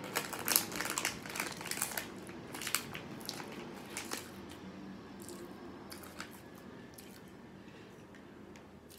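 Close-miked chewing and mouth sounds from eating: a run of small clicks and crackles, busiest in the first four seconds and thinning out after.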